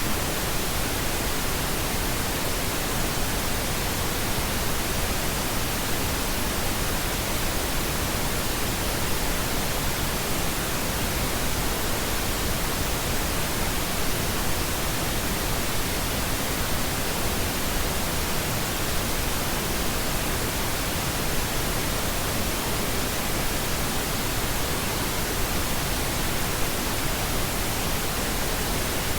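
Steady synthetic pink noise: an even, unchanging hiss spread across the whole range, fuller in the low end than white noise.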